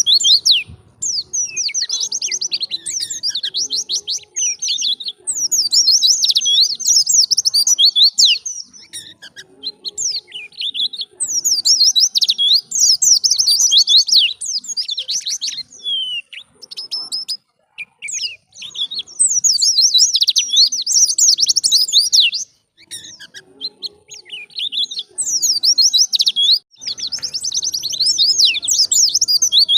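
White-eye (pleci) singing: rapid, high twittering song phrases a few seconds long, broken by short pauses.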